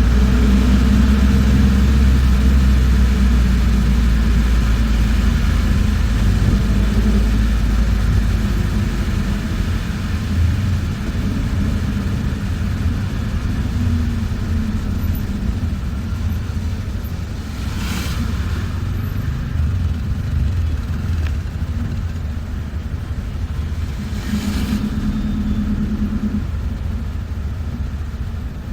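Bus engine and road rumble heard from inside a moving bus, steady and low, easing slightly after several seconds. Two brief hissing sounds cut through, about two-thirds of the way in and again a few seconds later.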